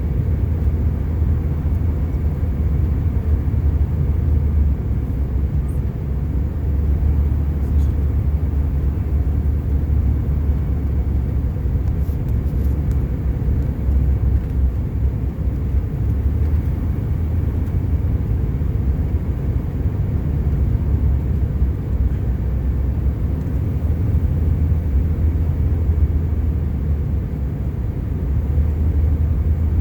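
Steady low rumble of engine and airflow noise inside the cabin of a Bombardier CRJ900 regional jet, heard from a window seat.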